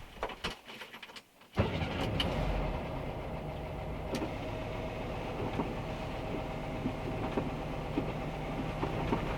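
A van's engine running steadily. It comes in suddenly about a second and a half in, after a few clicks and a moment of near silence.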